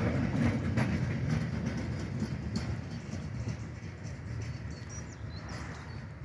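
Freight train rolling over the rails, with wheels clacking over the rail joints, fading steadily as it moves away.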